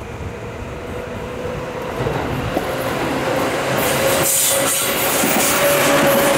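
Seibu 2000 series electric commuter train approaching and then passing close by, growing steadily louder. From about four seconds in, the cars roll past with wheel-on-rail rumble and hiss. A steady tone runs under it and rises slightly near the end.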